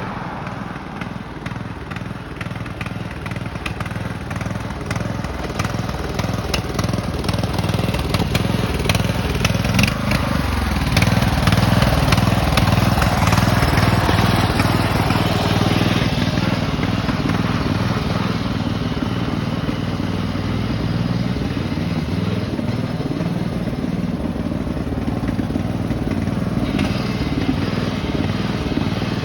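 Engine of a modified racing riding lawn mower running hard on a top-speed run, getting louder as it nears and loudest a little under halfway through, then running steadily.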